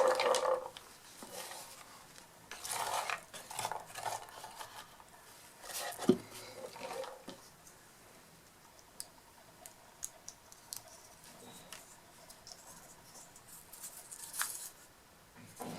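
Hands drawing a prompt slip and unfolding it: scattered rustling of paper with light clicks and taps, the sharpest tap about six seconds in.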